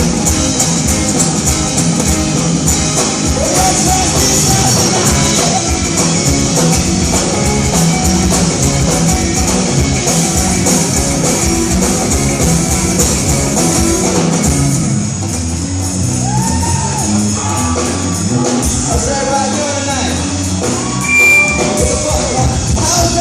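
Live band music, amplified and recorded in a large concert hall, with dense drumming through the first half. About two-thirds in the music thins out, and gliding shouted voices carry over it.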